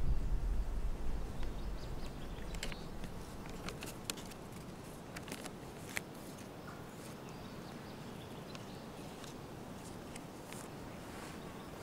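A low rumble fades away over the first couple of seconds. Then come quiet outdoor ambience and a scatter of small clicks and rustles as a paper is handled and folded by hand.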